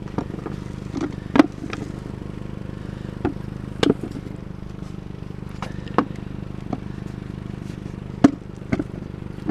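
Irregular knocks and clatters, about eight in all and spaced unevenly, over a steady low hum.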